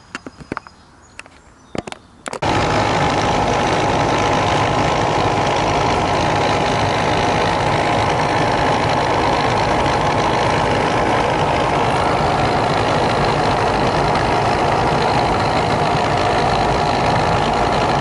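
Outdoor air-conditioning condensing unit switching on after a few faint clicks, its compressor and condenser fan then running steadily with a loud hum.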